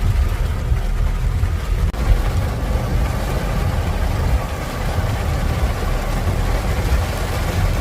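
Rain falling as an even hiss that thickens about two seconds in, over a steady low rumble.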